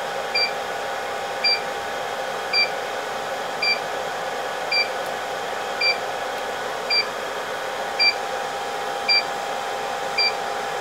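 Rework station beeping about once a second during a GPU reflow: short high electronic beeps at an even pace over a steady blower hiss and hum.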